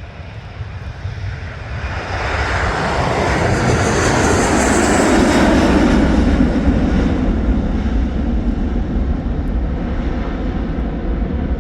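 Aircraft engine noise of a plane passing close. It grows louder over the first few seconds, then holds as a steady, loud rumble.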